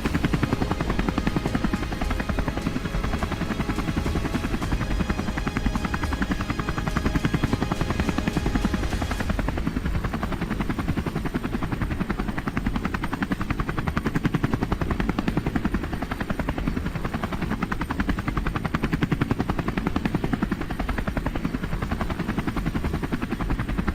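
Helicopter running close by, its rotor making a rapid, steady chopping pulse over the engine noise.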